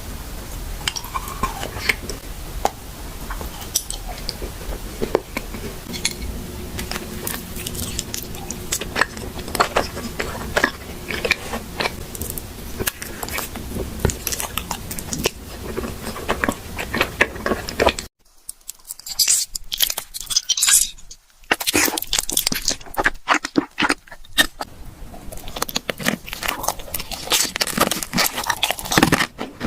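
Close-miked eating: crunchy bites and chewing with many sharp crackles. About two-thirds of the way through it cuts off abruptly, then crisp crunching starts again.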